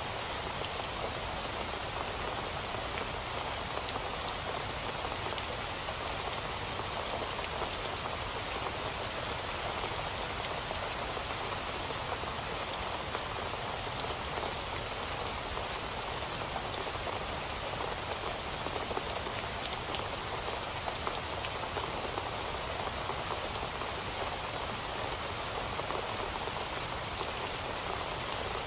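Steady rain falling, an even hiss with a scatter of individual drops ticking.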